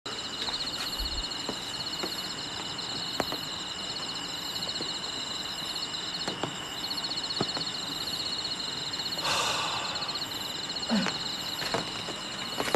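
Night insects chirring steadily in a high, fast-pulsing trill over a continuous high tone, with a few light ticks and a brief rustle about nine seconds in.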